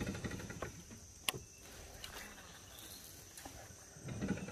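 Faint, steady, high-pitched drone of insects, with a single sharp click just over a second in.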